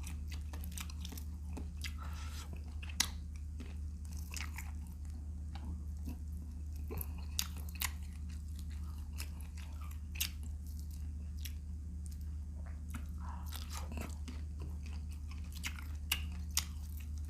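Close-up chewing and biting of vinegar-stewed shrimp, with many short sharp mouth clicks and crunches, over a steady low hum.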